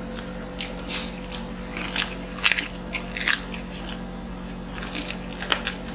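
Close-miked chewing and biting of fried chicken: wet mouth sounds with irregular crisp crunches, the sharpest clustered about two and a half to three and a half seconds in.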